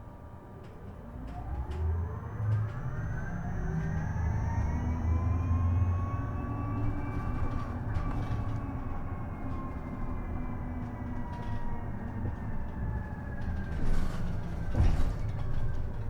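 Isuzu Erga EV electric bus's drive motor whining, rising in pitch as the bus pulls away and accelerates, then slowly falling as it eases off, over low road rumble with scattered rattles and knocks.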